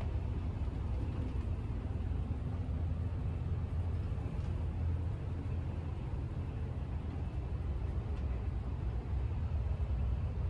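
Shinkansen bullet train running at speed, heard from inside a passenger car: a steady low rumble of wheels, track and air with no distinct events.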